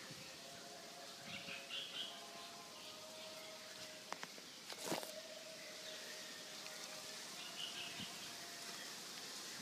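Faint garden ambience with birds chirping here and there, and a couple of sharp clicks about four and five seconds in.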